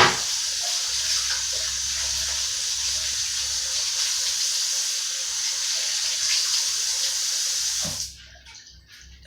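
Water running steadily from a kitchen tap into the sink, shut off about eight seconds in.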